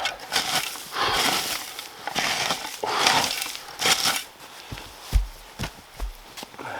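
Dry pine needles and twigs crunching and crackling in several loud bursts as they are gathered and broken up, followed by a few dull thumps about five seconds in.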